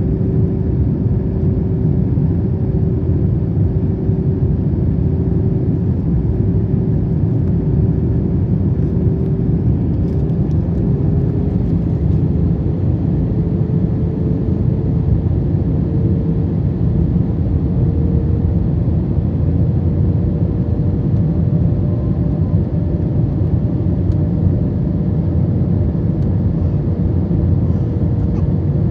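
Airbus A321 cabin noise at a window seat during descent: a loud, steady low roar, with a faint hum above it that rises slightly in pitch about halfway through, then holds.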